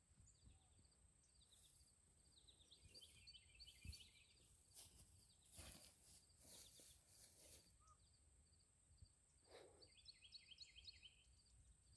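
Near silence outdoors, with faint bird chirps: a quick run of short high notes about three seconds in and another near ten seconds.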